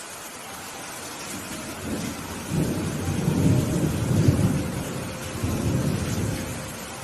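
Steady rain hissing, with a roll of thunder that swells about two seconds in, peaks midway and rumbles away near the end.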